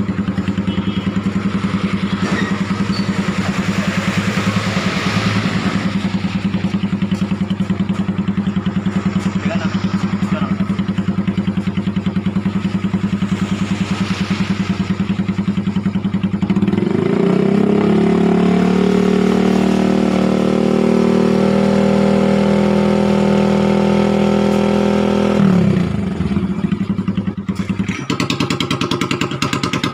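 Motorcycle engine running through a shop-made aftermarket exhaust: it idles steadily, is revved up a little past halfway and held at higher revs for about nine seconds, then drops back to idle.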